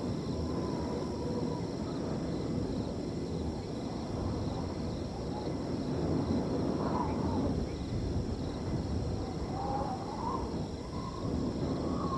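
Wind blowing steadily through a field, with crickets trilling underneath and a few short animal calls now and then.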